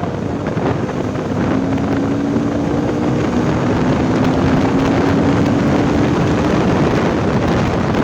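Motorcycle riding at speed, heavy wind rushing over the microphone, with a steady engine note that sinks slightly in pitch and fades near the end.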